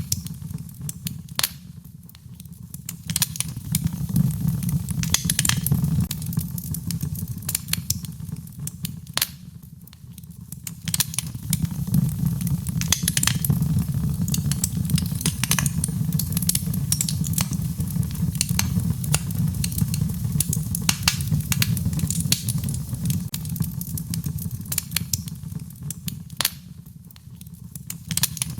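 Wood fire crackling in a fireplace: irregular sharp pops and snaps over a steady low rumble of the flames. The sound eases off briefly three times.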